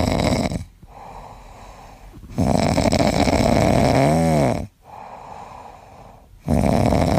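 Shiba Inu puppy snoring in its sleep: long rasping snores about every four seconds with quiet breaths in between, the middle snore carrying a brief whistle that rises and falls in pitch.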